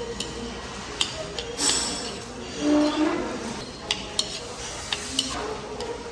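Dishes and cutlery clinking, several short sharp clinks scattered over a steady background hum.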